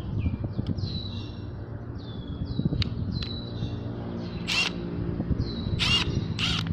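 Birds calling: a steady run of short, quick chirps, with several loud, harsh squawks from about halfway through, over a low background rumble.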